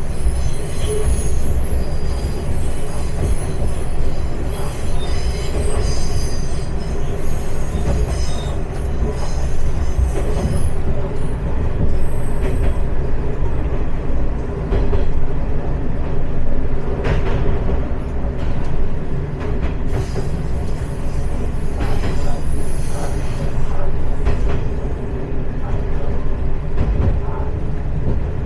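Single-car diesel railcar running along the track: a steady low rumble of engine and wheels on rails, with high wheel squeals in the first half.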